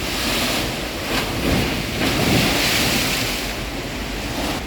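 Choppy storm waves slapping and washing in the bay, with strong wind buffeting the phone's microphone in a low rumble.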